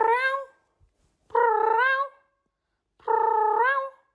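Cat meowing three times in a steady rhythm, each meow held briefly and rising in pitch at the end.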